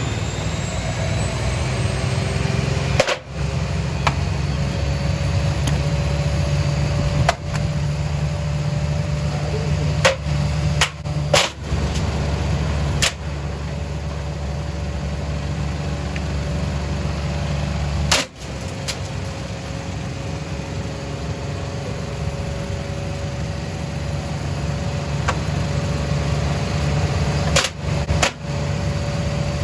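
Hoover H Wash 300 washing machine running with its drum turning, a steady motor hum. Sharp loud bangs come from inside the machine at irregular intervals, about nine in all, two close together near the end.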